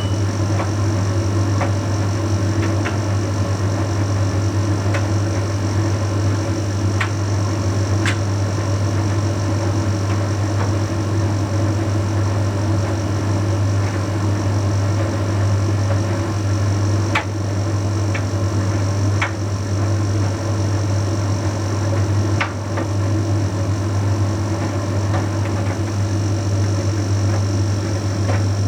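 Bosch Series 6 heat pump tumble dryer running mid-cycle on the Shirts programme: a steady low hum with a thin high whine, drum turning, and a few faint ticks scattered through.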